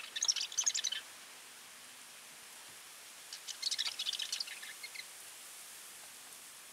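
A small songbird singing in two bursts of rapid, high chattering notes, the first right at the start and the second about three seconds in.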